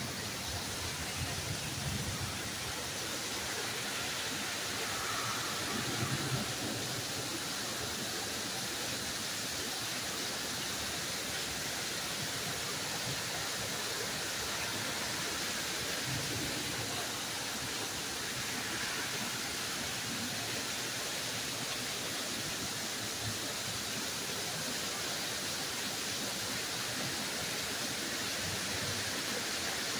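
Torrential rain pouring down steadily in an even, unbroken hiss.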